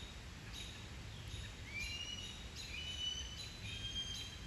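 Songbirds calling: many short, high whistled chirps, several birds overlapping, coming thicker from about a second and a half in.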